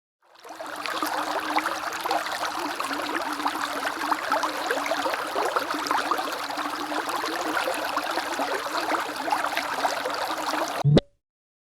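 Bubbling brook: stream water trickling and babbling steadily over stones. It fades in at the start and cuts off suddenly near the end with a brief click.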